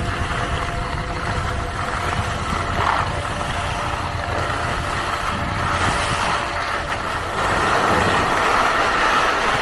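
Steady rushing of wind on the microphone with skis hissing over snow during a downhill run.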